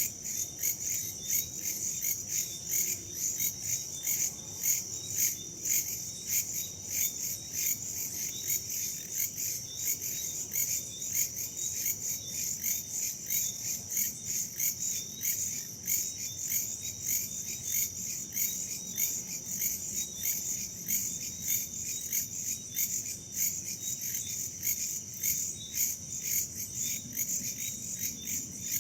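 A chorus of crickets and other insects chirring at night, a dense fast pulsing high-pitched trill that holds steady throughout, over a faint low rumble.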